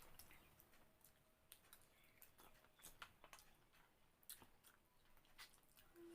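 Very faint chewing: scattered soft clicks and smacks of a mouth eating food.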